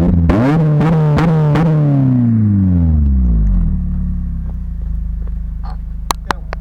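Honda Civic Type R FN2's 2.0-litre four-cylinder, through a Magnaflow exhaust, revved hard once with a few blips at the top, then falling slowly back to a steady idle. Two sharp cracks come near the end.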